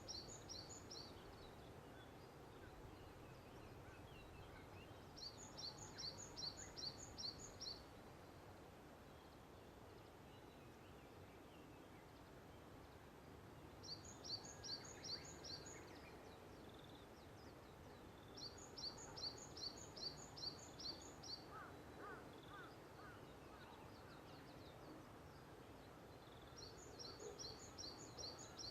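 A songbird singing short, rapid trills of high, evenly spaced notes, one every six to eight seconds, over a faint steady outdoor hum. A second, lower bird call comes in briefly about two-thirds of the way through.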